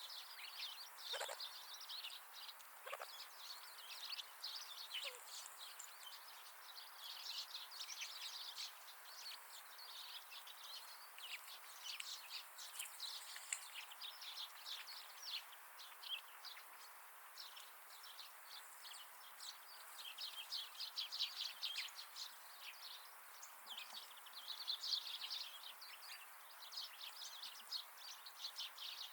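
Wild winter birds calling: a continuous chatter of many short, high, overlapping chirps.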